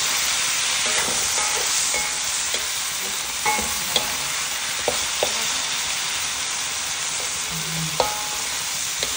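A pineapple stir-fry sizzling steadily in hot oil in a pan. A spatula stirs it, scraping and knocking against the pan now and then.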